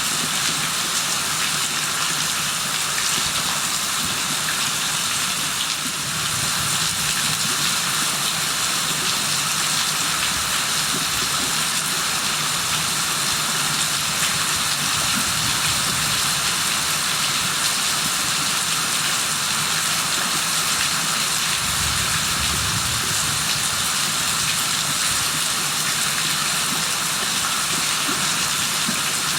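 Rain falling steadily, a dense even hiss. A brief low rumble comes in about three quarters of the way through.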